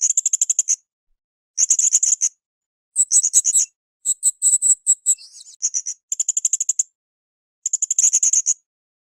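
Blue-crowned hanging parrot (srindit) singing: short bursts of rapid, high-pitched chirped trills, about six in all, each under a second long and separated by brief pauses, with a run of higher, more spaced notes near the middle.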